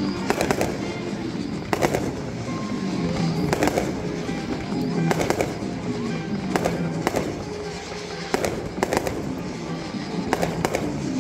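Fireworks bursting, a sharp bang every second or so, each followed by a short echo, over music played through stadium loudspeakers.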